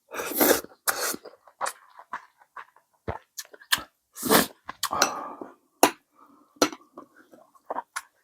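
A person eating ramen: chewing and slurping in irregular short bursts, with sharp little clicks between them.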